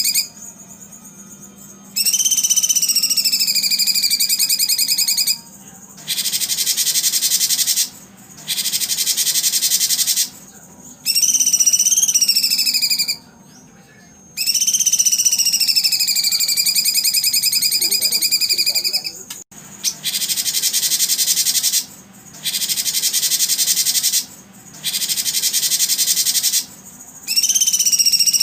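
Recorded birdsong played as a repeating sequence: long whistled notes that waver and dip in pitch, taking turns with harsh, dense buzzy trills about two seconds each.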